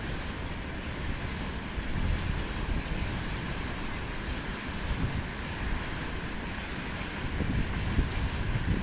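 A freight train of tank cars rolling past: a steady rumble of wheels on rail, with a few low thumps a few seconds apart.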